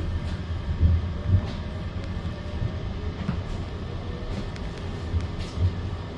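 Passenger train running, heard from inside the carriage: a steady low rumble with a few heavier thumps about a second in and again near the end.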